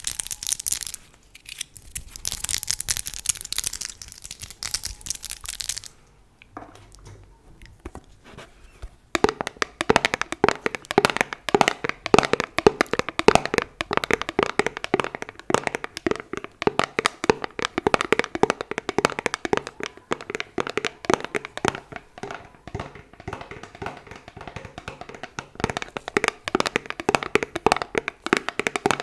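ASMR tapping: a crisp crinkling or scratching at first, then, after a short lull, fast dense tapping on an object, many taps a second.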